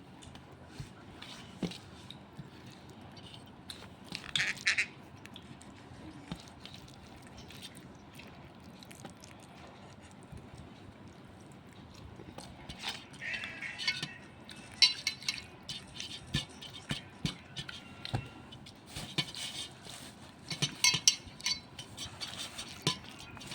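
A pet parrot eating from a dish: scattered clicks and clinks of beak and food against the bowl, with a few short high chirps about four seconds in and again later.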